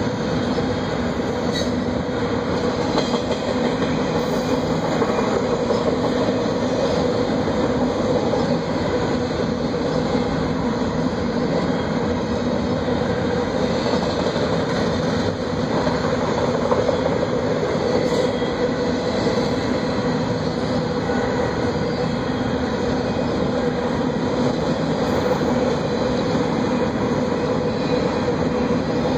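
Norfolk Southern double-stack intermodal train rolling past: a steady rumble of the loaded well cars' wheels on the rails, with a few faint clicks.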